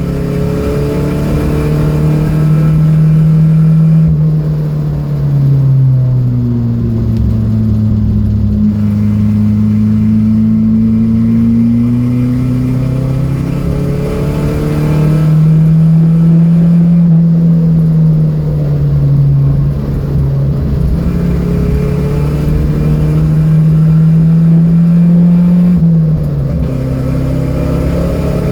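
Datsun B210 engine running hard on track. Its pitch drops about four seconds in, stays low, climbs again past the middle and falls once more near the end.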